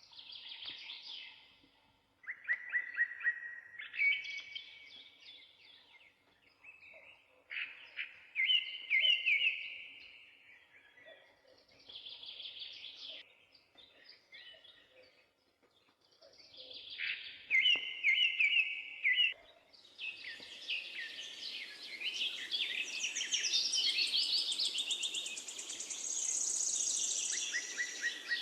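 Songbirds singing in short, trilled phrases with gaps between them. About two-thirds of the way through, more birds join in overlapping song over a steady background hiss.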